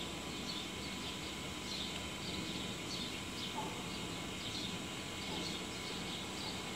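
Quiet steady outdoor background noise with small birds chirping, many short high calls scattered throughout.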